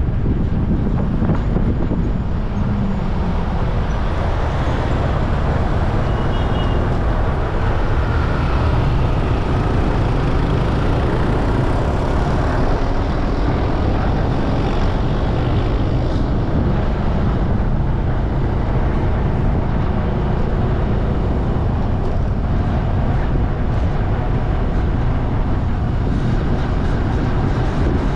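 Steady road and traffic noise heard from a moving bike, with wind rushing on the microphone.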